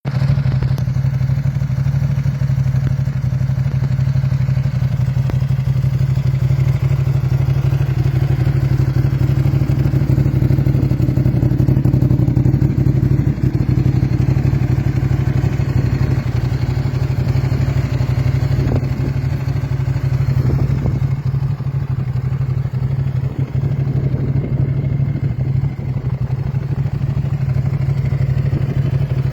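Ducati 888 superbike's 90-degree V-twin engine idling steadily.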